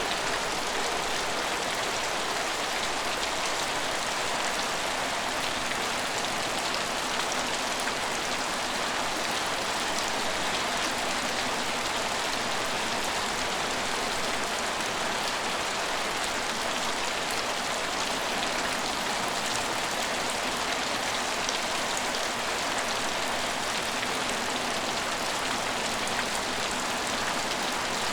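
Steady rain falling and pattering on surfaces, an even hiss with many fine drop ticks.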